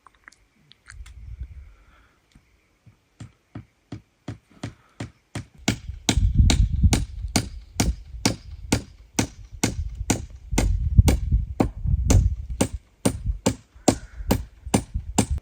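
Sharp, rhythmic chopping strikes: a few scattered at first, then a steady run of about three a second from about six seconds in, many with a dull thud beneath.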